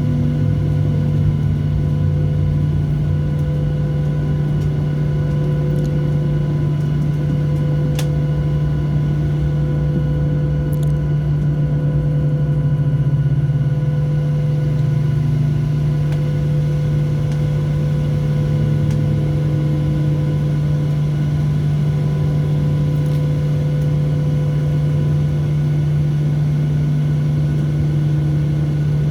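Steady cabin drone of a Boeing 737-700 with its CFM56-7B engines at low power while taxiing to the gate: a constant low hum with a few steady higher tones above it and one faint click about eight seconds in.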